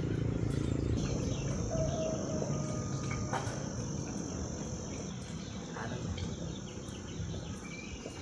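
An insect's steady, high-pitched trill starts about a second in and holds, over a low rumbling background.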